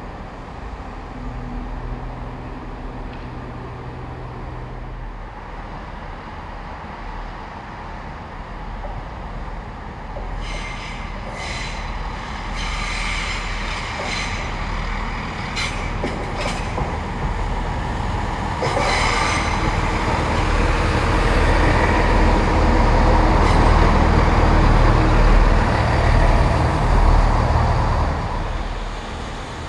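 Passenger multiple-unit train pulling into the platform, its wheels or brakes squealing high several times as it comes in, then a low steady hum growing loud as it draws alongside and easing off near the end.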